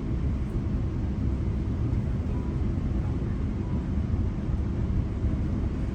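Steady low rumble of a GO Transit commuter train running along the track, heard from inside the passenger coach.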